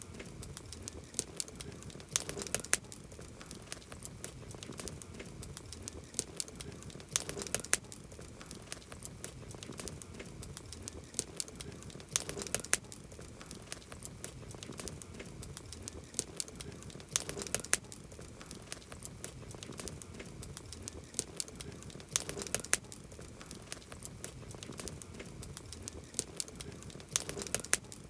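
Campfire wood crackling and popping: a steady scatter of sharp snaps over a soft hiss, with a cluster of louder pops about every five seconds.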